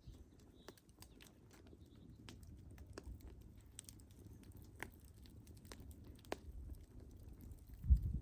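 Wood fire crackling: sparse, irregular sharp pops and snaps over a low rumble, with a louder dull thump near the end.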